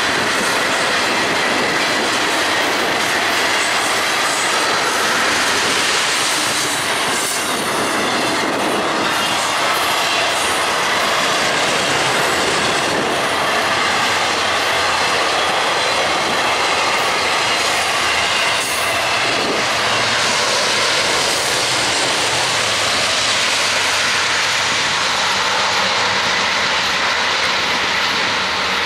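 Freight train cars rolling past close by: a steady rumble and clatter of steel wheels on the rails, with a faint wavering high wheel squeal at times.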